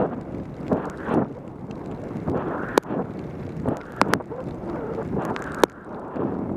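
Wind buffeting the microphone of a helmet-mounted camera on a mountain bike descending in pouring rain, a rushing noise that swells and ebbs. A few sharp clicks cut through it, about three and four seconds in and again near the end.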